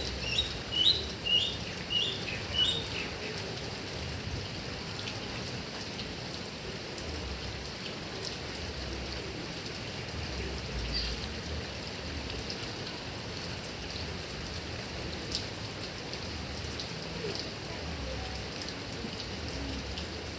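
Heavy rain falling steadily on grass and trees, a continuous hiss. In the first three seconds a bird gives a quick series of short, high chirps over it.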